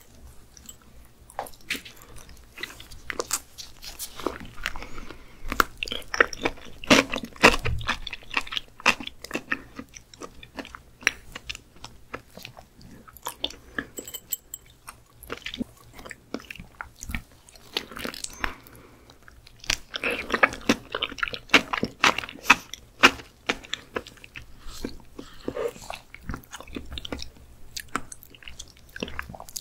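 Close-miked eating of soft, creamy raw skate liver: irregular chewing, biting and mouth sounds, busiest twice during the stretch.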